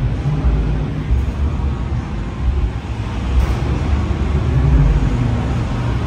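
Deep, uneven rumble of car engines running.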